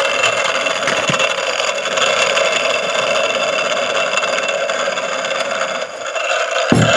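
Small two-stroke engine of a JCB chainsaw running steadily after repair, now a working engine. Near the end its level dips briefly, then picks up again with a low thump.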